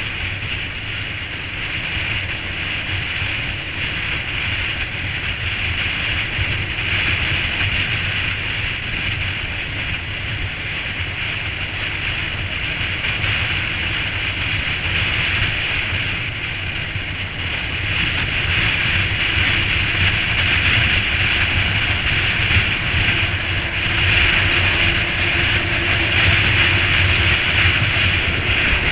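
A vehicle driving on a rain-wet road: a steady hiss of tyre spray over a low engine and road rumble, slowly growing louder.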